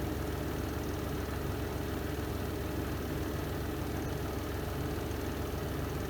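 Spin drum of a Renova semi-automatic twin-tub washing machine running at steady speed, an even motor hum with no change in pitch or level.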